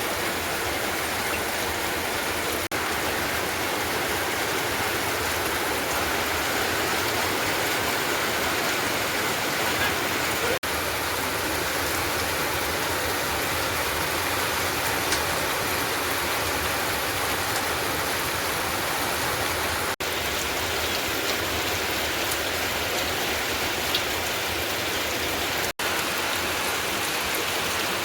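Steady heavy rain, an even hiss that drops out for a split second a few times.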